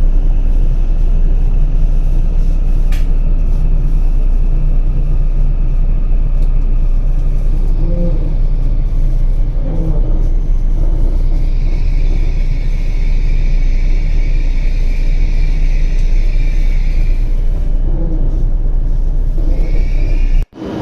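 Running noise of a W7 series Shinkansen train at speed, heard from on board: a loud, steady low rumble, with a hissing band joining it for several seconds around the middle. The sound cuts off abruptly just before the end.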